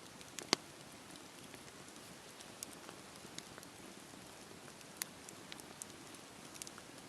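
Campfire crackling: a soft steady hiss of burning wood with irregular sharp pops and snaps, the loudest snap about half a second in and another about five seconds in.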